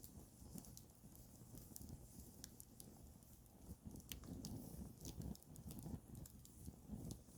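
Wood campfire crackling softly: irregular sharp pops and snaps, several a second, over a low rumble of the burning fire.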